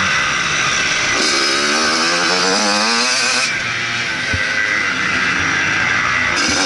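Motocross bike engine running hard at close range, its pitch climbing and wavering as it revs up about a second in, and rising again near the end.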